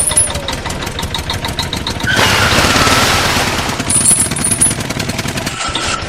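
Cartoon truck engine sound effect: a fast, even rattling clatter, about a dozen strokes a second, alternating with a steadier running stretch in the middle, the pattern repeating. A short high squeal comes about four seconds in.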